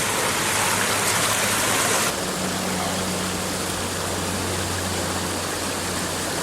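Steady rush of a waterfall. About two seconds in, the rush changes abruptly to a slightly quieter, duller sound, with a faint steady low hum beneath it.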